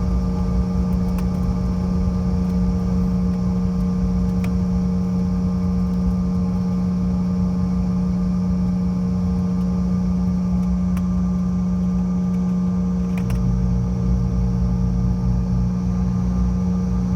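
Steady cabin drone of a CRJ700 airliner's twin rear-mounted turbofan engines, heard from inside the passenger cabin: a constant low hum with rumble underneath. A second, lower hum joins about 13 seconds in.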